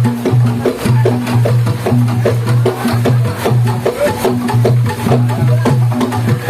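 Javanese gamelan music playing: rapid, evenly paced metallic and drum strikes over sustained low tones, with no singing.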